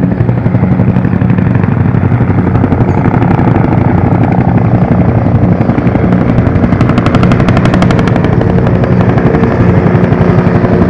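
Helicopter rotor chop: a loud, fast, even pulsing of the blades, with a steady low drone underneath.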